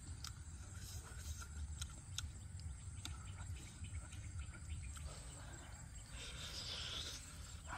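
Close-up eating sounds: chewing and lip-smacking with scattered wet mouth clicks, then a louder, hissy bite into the roasted crocodile leg's skin about six seconds in. A steady low rumble runs underneath.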